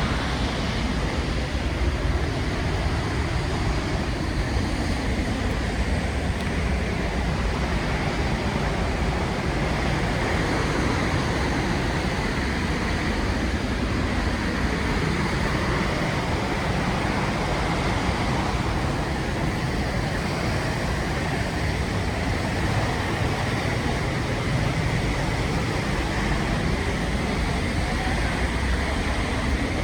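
Steady roar of the Rhine Falls: a constant rush of falling water with no change in level.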